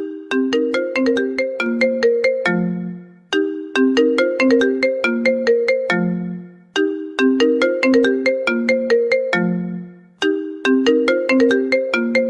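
iPhone call ringtone: a phrase of quick, mallet-like marimba notes ending on a lower note, looping about every three and a half seconds.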